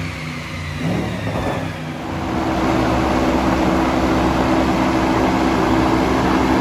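Jaguar XFR's supercharged 5.0-litre V8 running on a rolling-road dyno. The sound steps up about two seconds in and then holds as a steady, louder drone.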